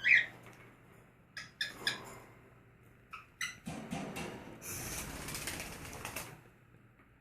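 Pet birds: one short rising chirp at the start, then scattered sharp clicks, and from about four seconds in, two seconds or so of wing flapping and rustling.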